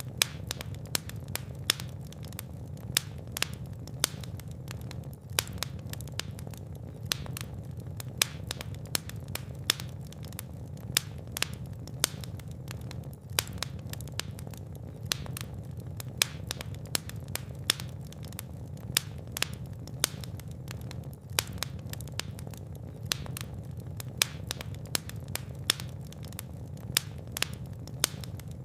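Fire crackling in a fireplace: irregular sharp pops and snaps, several a second, over a steady low rumble of flame.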